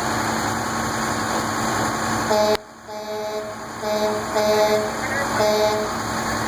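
A steady engine hum, then a series of five or six short blasts of a multi-tone vehicle horn, each sounding two or three pitches together as a chord.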